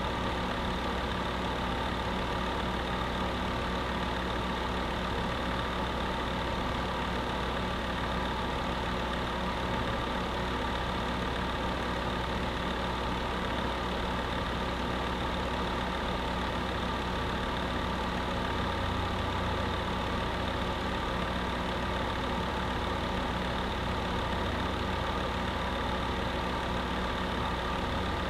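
Electric space heater running steadily: a constant hum with a rush of air, unchanging throughout.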